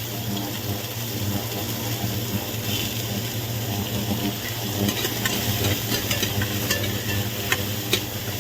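Chopped onions sizzling in hot oil with whole spices in a pan, being stirred, with scattered sharp crackles and clicks, more of them in the second half, over a steady low hum.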